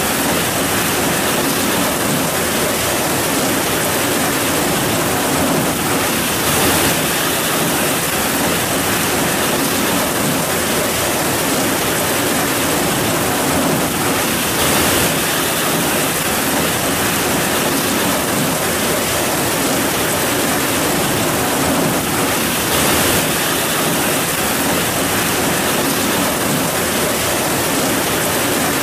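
Heavy rain pouring steadily: a dense, even hiss with a few brief swells.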